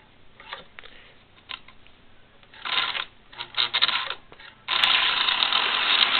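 Model railroad switches being thrown: a series of small clicks and clacks. About three-quarters of the way through, a steady rushing noise starts suddenly as the model coal train is set running on the track.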